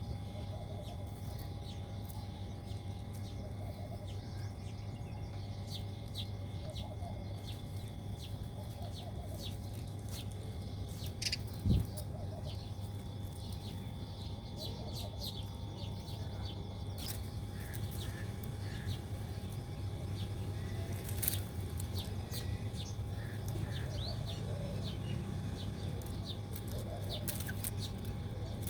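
Small birds chirping with many short, scattered calls over a steady low background rumble. A single sharp knock about twelve seconds in.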